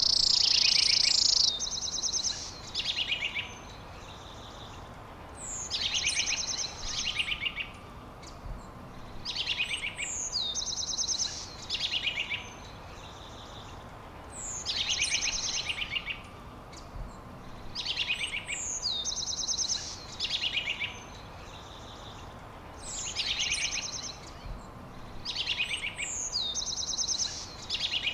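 A songbird singing the same short, high phrase over and over, about every four seconds: a quick downward-sweeping note followed by a fast trill, over a faint steady hiss. A loud, steady, high-pitched buzz fills the first second and a half.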